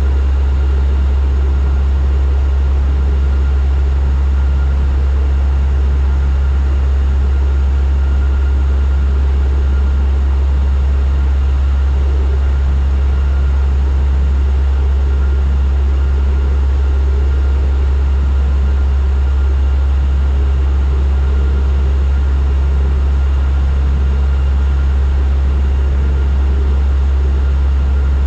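Turboprop airliner in cruise or descent heard from inside the cabin: a steady, deep propeller drone with a faint, even higher whine from the engines.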